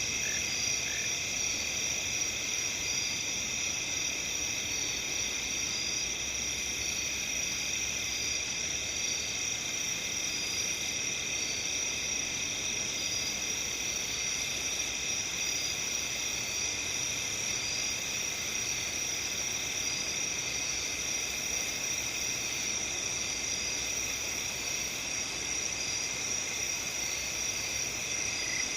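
Night chorus of crickets and other insects: several continuous high-pitched trills layered together, with a second insect chirping in short notes repeated at an even pace.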